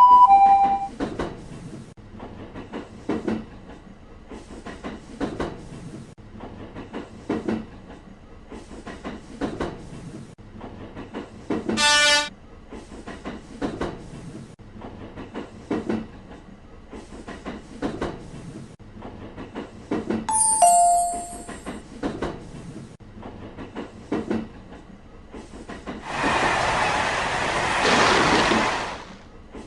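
Train running with a steady rhythmic clatter of wheels over rail joints. A short horn blast comes about 12 s in, a two-note falling chime about 20 s in, and a loud burst of hissing air near the end.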